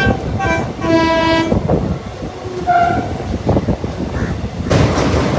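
Train horn sounding several short blasts at differing pitches over the steady rumble of a moving passenger train. Near the end a loud rushing noise sets in suddenly.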